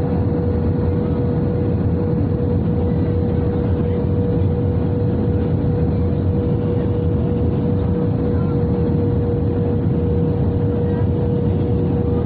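Steady in-flight cabin noise of an Airbus A320-214: a continuous engine and airflow rumble with a steady mid-pitched tone running through it.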